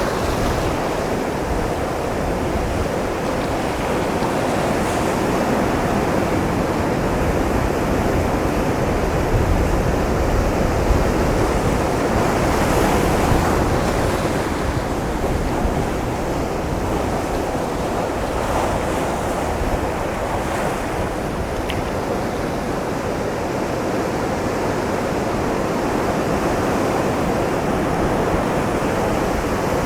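Ocean surf breaking against a rocky shoreline, a continuous wash of churning water that swells and eases as waves come in, with some wind buffeting on the microphone.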